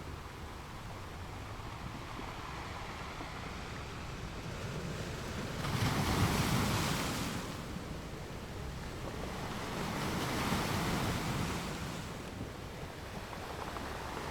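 Ocean waves washing onto a beach: a steady surf noise with two waves swelling and breaking, one about six seconds in and another about ten seconds in.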